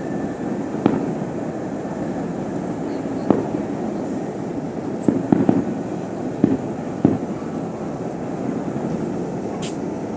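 Distant aerial fireworks bursting: irregular sharp bangs every second or two over a continuous low rumble, with a short high crackle near the end.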